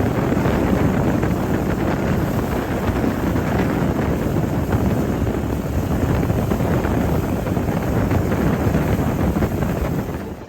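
Boat running across the water, with wind buffeting the microphone as a steady, loud rush.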